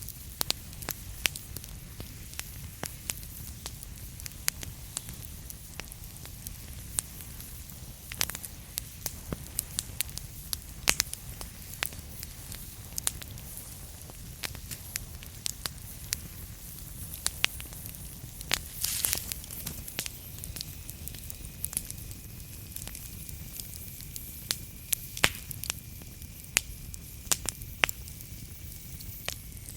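Wood fire crackling in a fireplace: frequent sharp pops of burning logs over a low steady rumble of flame. A brief hiss comes about two-thirds of the way through, followed by a faint thin whistle.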